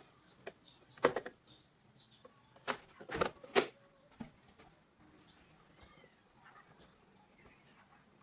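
Small stones dropped by hand into a model dump truck's body, clacking sharply a few times: once about a second in, then three times in quick succession around three seconds in.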